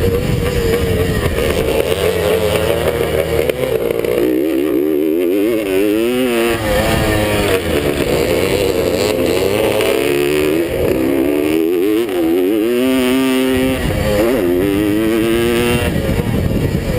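Vintage Suzuki two-stroke motocross motorcycle racing, its engine revving up and down over and over as the throttle is worked.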